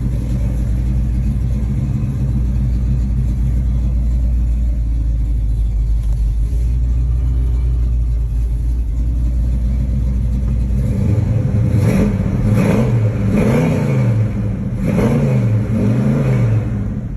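1972 Chevrolet Chevelle Malibu's V8 engine idling with a steady low rumble, then revved several times from about eleven seconds in, the pitch rising and falling with each blip of the throttle.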